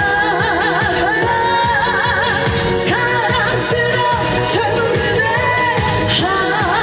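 A female trot singer singing with a strong, wavering vibrato over an upbeat pop backing track with a steady dance beat.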